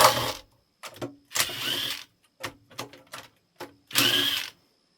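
A cordless power tool, such as an impact or electric ratchet, runs in three short bursts, driving out the oil pan bolts. Small clicks and knocks come between the bursts.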